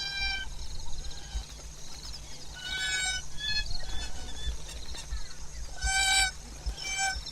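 Marabou stork calls: a few short, nasal, honk-like notes, some single and some in quick runs of two or three, over a low steady rumble.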